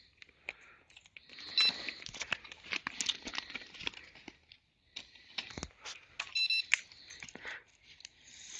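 Electronic carp bite alarm beeping in two short bursts, about a second and a half in and again about six and a half seconds in, over scattered clicks and knocks of handling.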